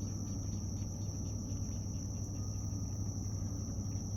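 Steady high-pitched trill of insects, such as crickets, in a dawn chorus, with a low steady rumble underneath.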